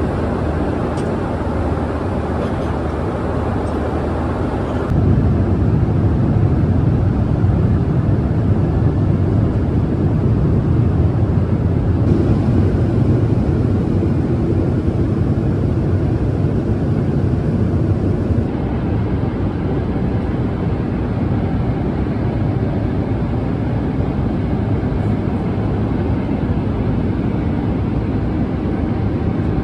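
Steady cabin noise of a Boeing 777-300ER in flight: a constant low hum and hiss of engines and airflow. The level steps up about five seconds in and shifts again around twelve and eighteen seconds in.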